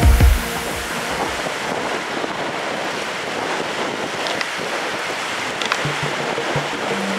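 Strong wind and surf making a steady rushing noise, with wind buffeting the microphone.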